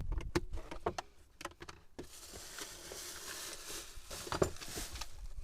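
Sharp metallic clicks and knocks of a spanner being fitted and turned on a tap, then a steady hiss lasting about three seconds.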